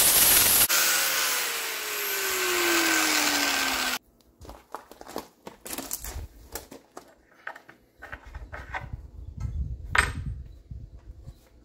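Electric welding arc crackling loudly with a steady hiss, joined for a few seconds by a tone that falls steadily in pitch. About four seconds in it drops away, and scattered knocks and clatter of metal pieces being handled follow.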